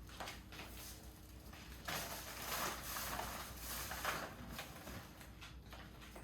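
Faint rustling and light clicking of something being handled, with a denser rustle for about two seconds starting about two seconds in.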